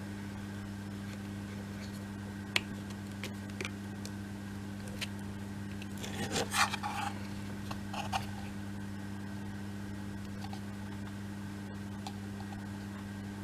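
Faint taps, clicks and scrapes of small laser-cut kit pieces being handled and pressed into place, with a short cluster of rustling clicks about six seconds in, over a steady low electrical hum.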